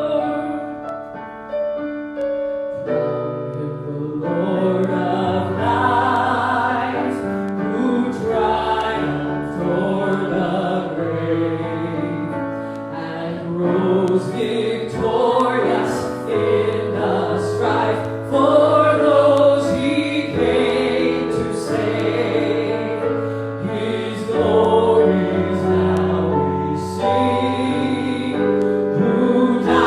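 Church worship music: voices singing a slow song over keyboard chords that change every couple of seconds.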